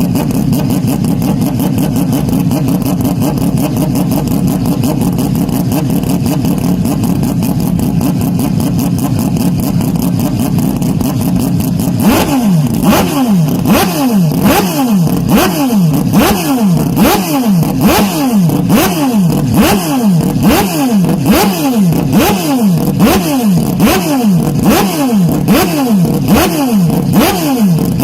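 Loud race car engine running steadily. About twelve seconds in it changes to a rapid string of revs, each rising in pitch and cut off sharply, repeating about every half second.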